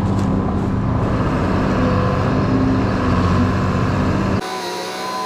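Heavy machine engine running steadily at a low, even pitch. About four seconds in it cuts abruptly to a quieter engine with a higher, wavering pitch.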